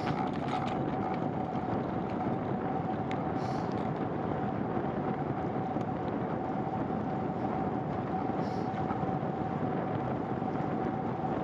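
Steady rolling noise of a bicycle ride, wind and tyre noise, with a faint steady high whine running through it.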